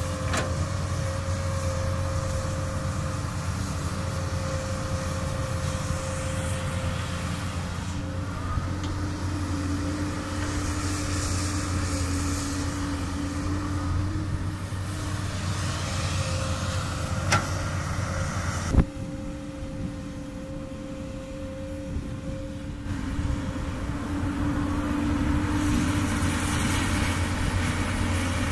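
Komatsu PC200 excavator working, its diesel engine running with a steady drone and a steady whine over it. Two sharp knocks come about a second and a half apart, about two-thirds of the way in; the engine then runs quieter for a few seconds before rising again near the end.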